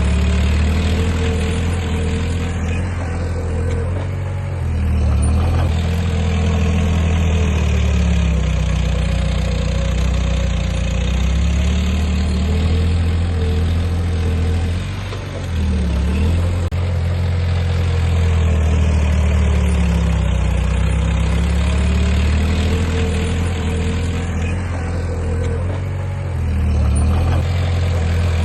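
Heavy construction machine's diesel engine running steadily, its note dipping and recovering briefly a few times.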